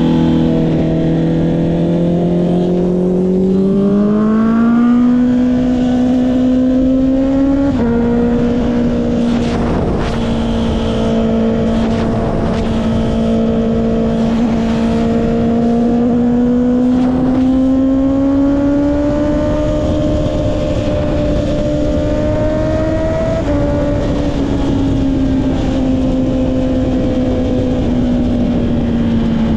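Honda CB650R's inline-four engine running through an Akrapovic exhaust while riding: the note holds steady, climbs over a couple of seconds a few seconds in, drops slightly about eight seconds in, then holds, rises gently again past the midpoint and eases back near the end. Wind rushing over the camera.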